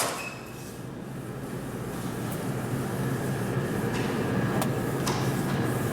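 Steady low hum with an even hiss, slowly getting louder, with a few faint light clicks near the end.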